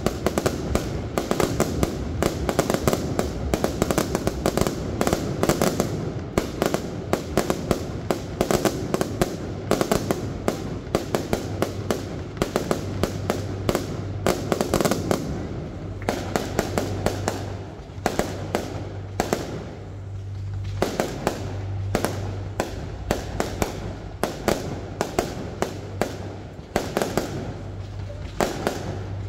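Fireworks display: a dense, rapid barrage of aerial shell bursts and crackling reports, thinning in a few brief lulls in the second half.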